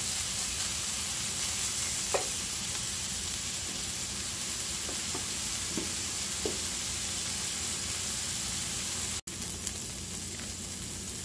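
Diced onions and apples sizzling steadily in a cast-iron skillet as they caramelize, with a few faint knocks of a wooden spoon in the first half. The sound briefly cuts out about nine seconds in.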